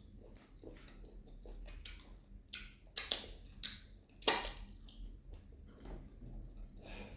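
Eating sounds of pounded yam and egusi soup: soft chewing with irregular wet lip smacks and clicks, the loudest smack about four seconds in.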